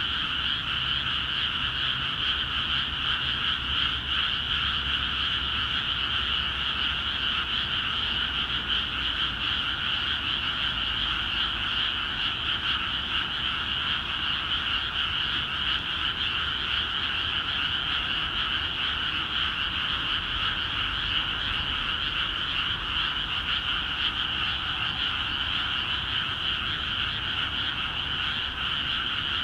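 A dense chorus of many frogs calling at once in flooded rice paddies, a steady unbroken wall of croaking with no pauses.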